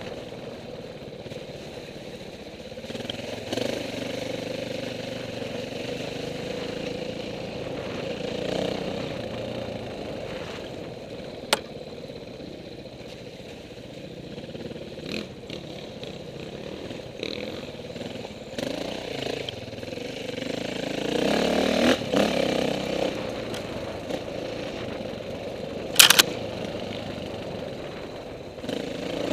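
KTM 450 dirt bike engine running off-road, its revs rising and falling with the throttle and peaking about three quarters of the way through. Two sharp knocks cut in, one about a third of the way in and a louder one near the end.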